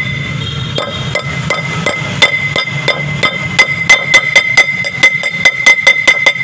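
Hammer tapping a pilot bearing into its seat, sharp metal-on-metal strikes with a ringing tone. The taps come at about three a second at first and quicken to about five a second over the last few seconds.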